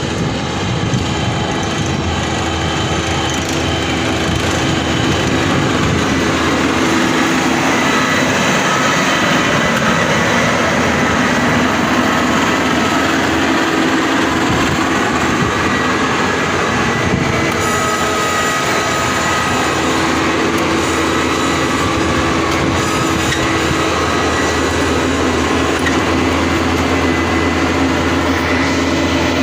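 Diesel engines of a rice combine harvester and a truck running steadily, with several high steady whining tones over the rumble.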